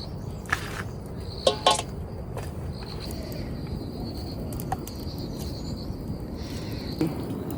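An insect keeps up a steady high-pitched drone over a low background hiss. A few sharp knocks cut through it, the loudest two close together about one and a half seconds in.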